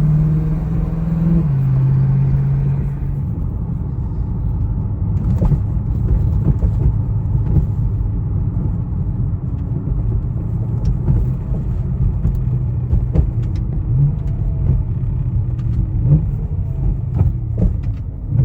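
BMW E90 M3's 4.0-litre V8 running as the car is driven. The engine note drops in pitch about a second and a half in, then settles into a steady low rumble with road noise and scattered light clicks.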